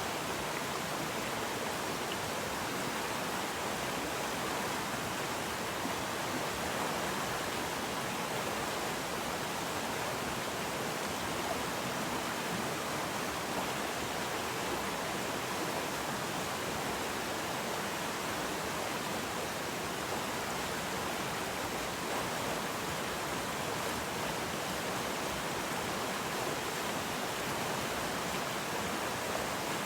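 River water flowing and rushing steadily, an even wash of noise with no breaks.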